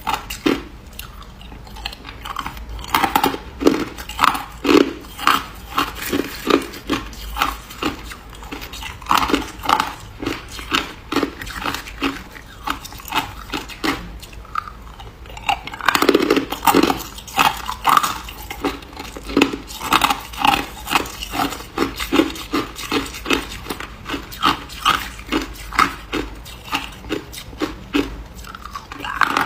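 A person biting and chewing ice close to the microphone: a steady run of crisp crunches, about one to two a second, quieter for a few seconds in the middle.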